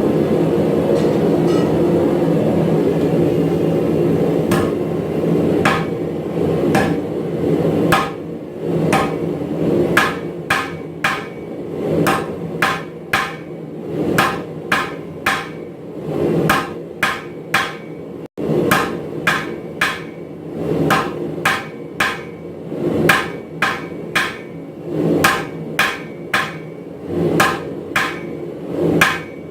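Hand hammer striking metal on an anvil in a steady rhythm of about two blows a second, over a steady low rushing noise.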